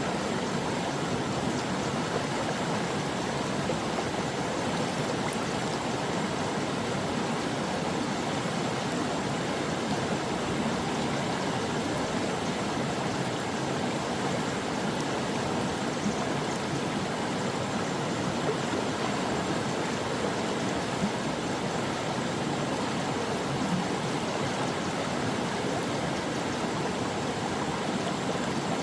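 A brook's running water: a steady, even rush and gurgle of flowing water, unbroken throughout.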